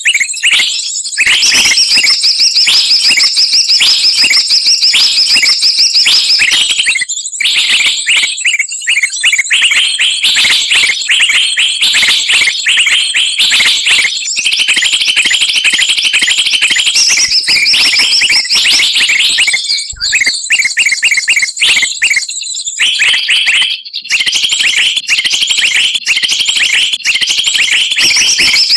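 A noisy chorus of many small songbirds chirping and trilling rapidly in high-pitched runs, with only a few brief gaps. It is a bird-trapping lure recording (suara pikat), a mix made to draw wild birds down.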